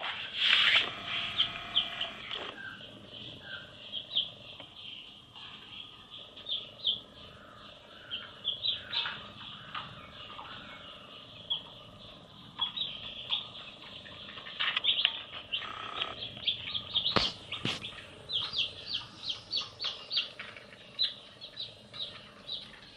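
Baby chicks peeping: many short, high-pitched cheeps, some in quick runs, with a single sharp click about two-thirds of the way through.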